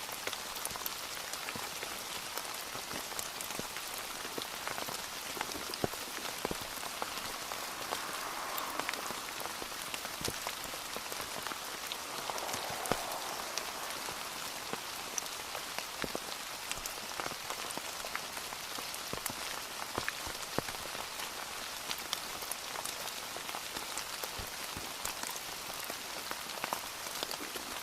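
Steady rain falling on a surface, an even hiss scattered with many small, sharp drop ticks.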